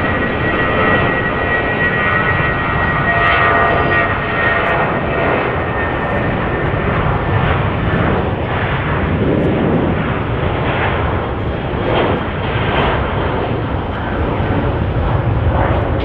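Airbus A319 airliner's jet engines, a loud steady rumble with a thin high whine in the first few seconds that fades away.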